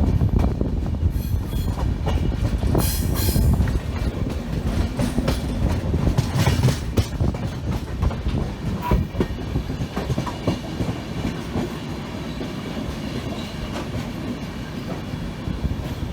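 Indian passenger train running on the track: a steady rumble with the wheels clacking over rail joints. Brief high-pitched bursts come about three seconds in and again around six to seven seconds in.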